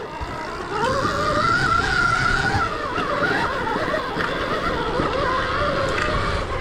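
Electric motor whine of a Stark Varg EX electric enduro bike being ridden, over a rough low rumble. The whine grows louder about a second in, and its pitch rises and falls with the throttle.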